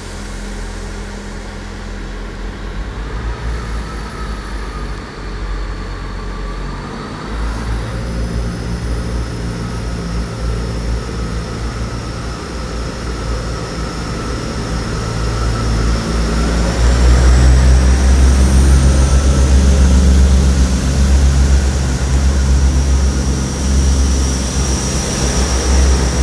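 Class 159 diesel multiple unit pulling away, its underfloor diesel engines running under power. The engine note grows louder about two thirds of the way in, with a high whine rising over it.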